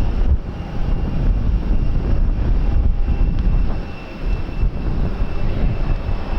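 Aircraft engine noise with a faint steady high whine, mixed with gusty wind buffeting the microphone.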